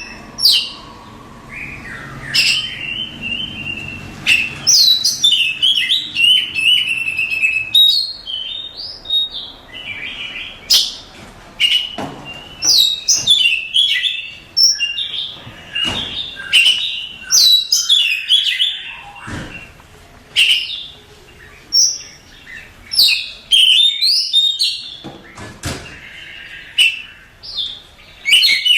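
Oriental magpie-robin (kacer) singing, a loud, varied song of whistles and rapid trills in phrases with short gaps, the full contest-style song that keepers play to teach other songbirds.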